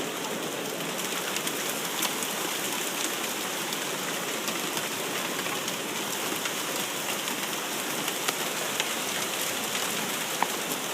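Hail falling in a steady hiss, with many scattered sharp clicks of hailstones striking hard surfaces.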